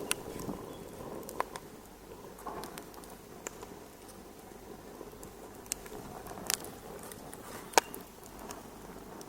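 Wood fire crackling in a fireplace: irregular sharp pops and snaps over a soft, steady hiss, the loudest pop about three-quarters of the way through.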